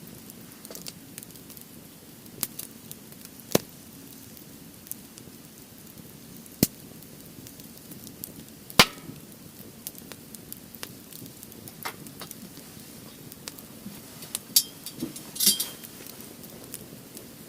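Firewood burning in a fire pit, crackling steadily with a few sharp, irregular pops; the loudest pop comes about nine seconds in.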